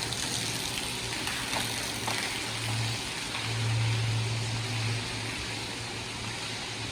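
Steady rush of running water, with a low steady hum under it that swells about three to five seconds in.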